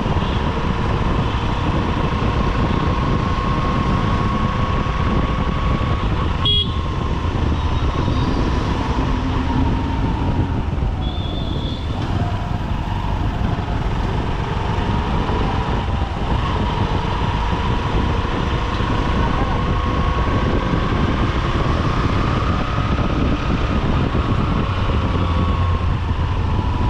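Honda SP125's 124 cc single-cylinder engine running on the move through traffic, with road and wind noise at the helmet-mounted microphone. A short horn toot sounds about eleven seconds in, and a sharp click about six seconds in.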